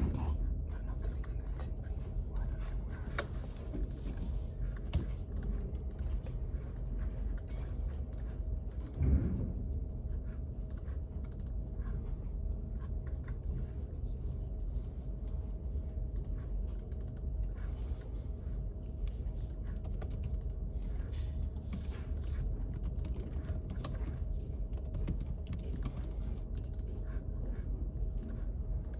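Computer keyboard typing, irregular clicking of keys, over a steady low hum. One louder knock about nine seconds in.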